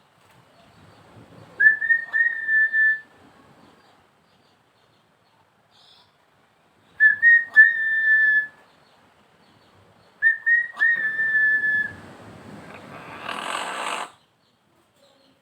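Hill myna (Mentawai beo) whistling three times. Each whistle is a clear held note that opens with a quick upward flick. After the third whistle comes a rough, raspy noise of about two seconds.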